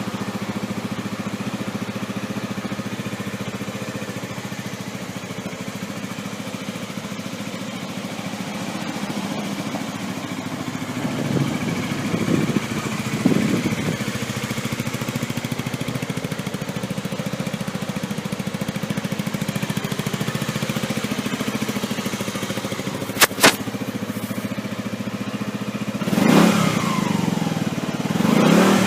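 Suzuki Skywave 250 scooter engine with an aftermarket exhaust, idling steadily and revved in short bursts twice in the middle and twice near the end. Two sharp clicks come in quick succession about two-thirds of the way through.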